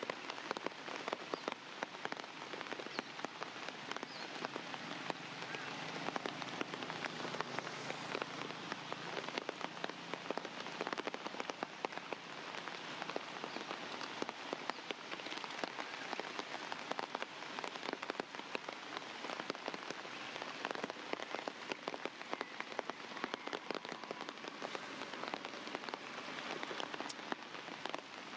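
Steady rain falling, with many close individual drops striking a surface.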